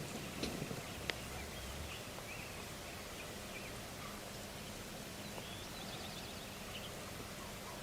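Small birds chirping, with a trill near the end, over outdoor background noise; a brief rustle and a single sharp click come about a second in.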